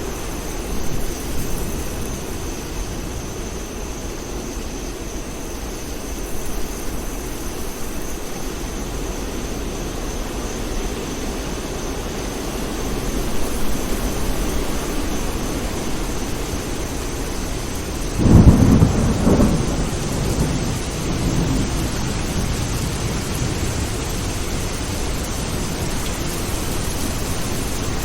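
Steady rain with low rumbles of thunder; a loud thunderclap breaks about two-thirds of the way through and rolls away over a few seconds.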